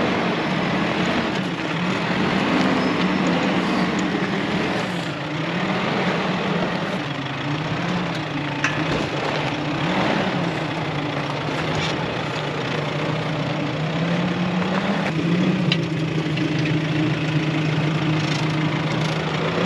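Off-road 4x4 vehicle's engine running under load, its pitch rising and falling every second or two as the throttle is worked over rough riverbed ground, with a few sharp clicks along the way.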